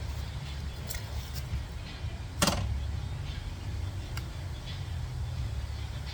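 Honda Rebel motorcycle engine idling steadily with a low rumble, and one sharp clunk about two and a half seconds in.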